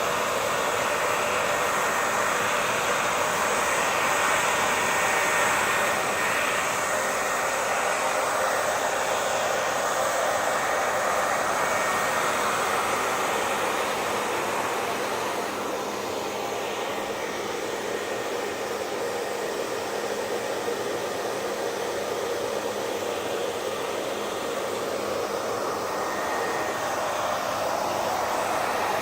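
Hair dryer running steadily, blowing air with a constant motor whine.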